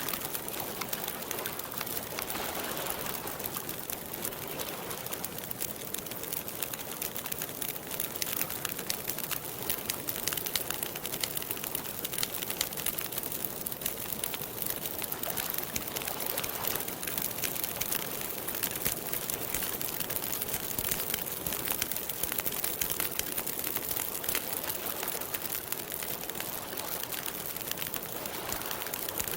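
Campfire crackling steadily, a dense run of small pops and snaps over a soft hiss.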